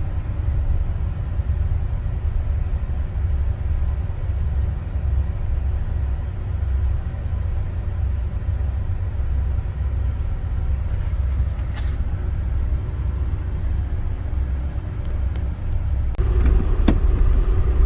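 Steady low engine rumble aboard a car ferry while its bow ramp is being lowered for docking. Near the end it grows louder, with a few sharp clanks.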